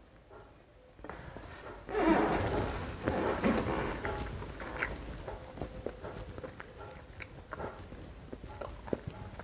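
Close-miked handling of food and packaging: a loud rustle from about two seconds in, then scattered small clicks and taps.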